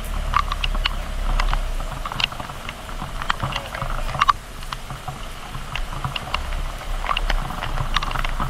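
Raindrops tapping irregularly on a GoPro's waterproof housing, with a low steady rumble underneath.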